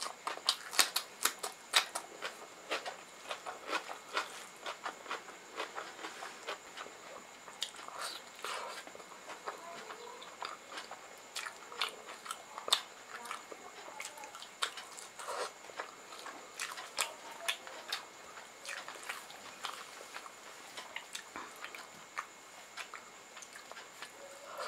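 Close-miked chewing and mouth smacking as a person eats rice and curry-soaked pakoras: a steady stream of sharp, wet clicks, densest and loudest in the first two seconds.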